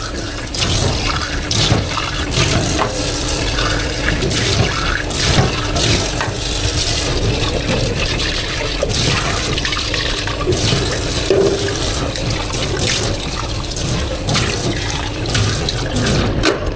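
Water running from a tap into a sink, with intermittent clatter of items being rinsed and handled: shop cleanup at the sink.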